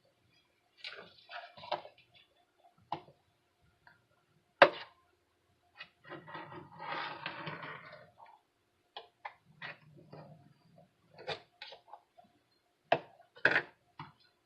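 Kitchen handling sounds while circles are cut from a tortilla around a small bowl: scattered knocks and clicks of a knife and bowl on the counter, the sharpest about four and a half seconds in, and a couple of seconds of scraping and rustling partway through.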